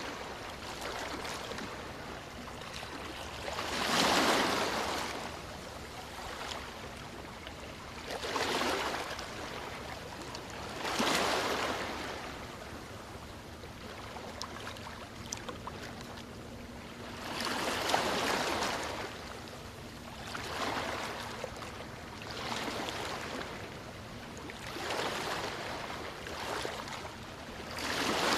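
Sea waves breaking and washing ashore, each surge swelling and fading every few seconds over a steady hiss of surf.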